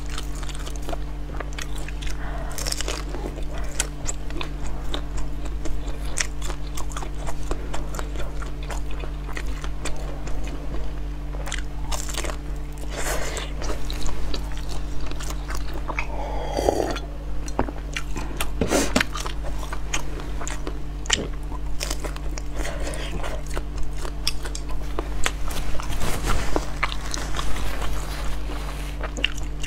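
Close-miked biting and chewing of large red sausages: a continuous run of short, sharp mouth clicks and chews, over a steady low electrical hum.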